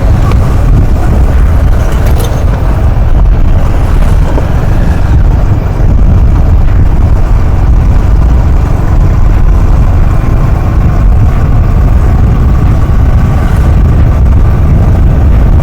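Motorcycle riding along a road: loud, steady wind buffeting on the microphone over engine and road noise.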